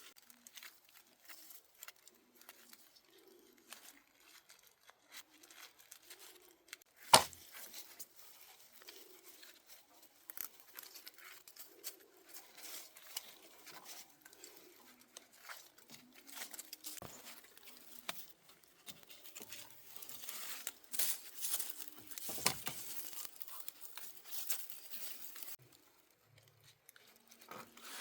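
Dry plant material being handled: rustling, tearing and crackling in irregular bursts, with one sharp crack about seven seconds in and a denser run of crackling a little after twenty seconds.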